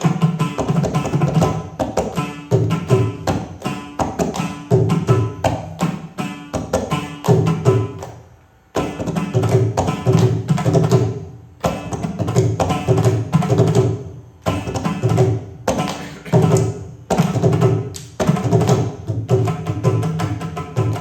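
Indian classical hand drum playing a fast, dense run of tuned strokes with deep bass strokes. It breaks off briefly about eight and a half seconds in, then resumes.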